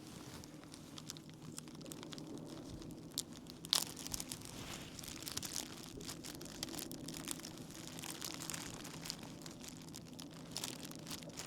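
Irregular crinkling, tearing and clicking handling sounds, with a sharper click about four seconds in, over a steady low hum.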